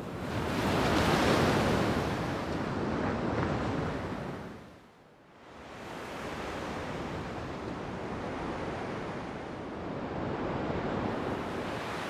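Ocean waves washing, with wind. A loud surge over the first few seconds fades to a lull about five seconds in, then a steadier wash of water returns.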